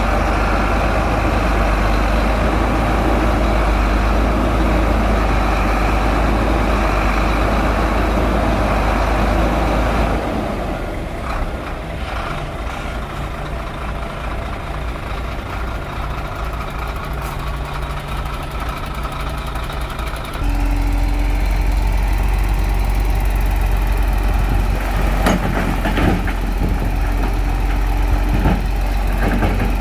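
Shantui bulldozer's diesel engine running heavily, easing off to a quieter, lower run for about ten seconds midway before coming back up. A few sharp metallic knocks sound near the end.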